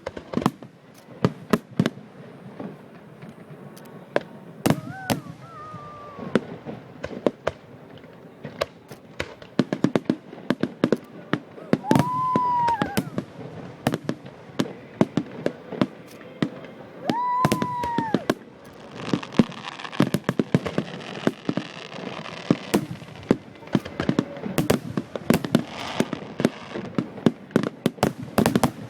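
Fireworks and firecrackers going off in a rapid, irregular string of bangs and pops. Two brief high whistling tones come near the middle, and the crackling grows denser in the later part.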